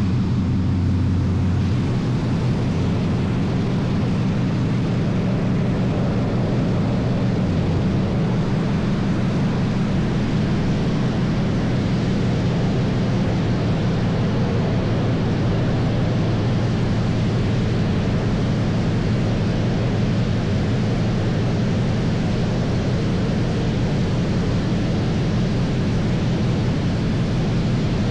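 Car wash equipment running: a steady, loud rushing noise with a low hum underneath.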